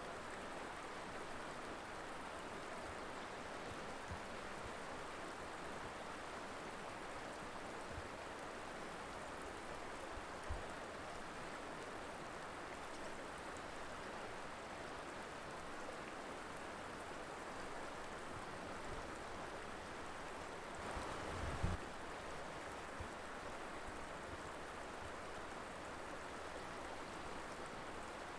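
River water flowing over rocks in a steady rushing wash, with a brief louder swell and a low bump a little over two-thirds of the way through.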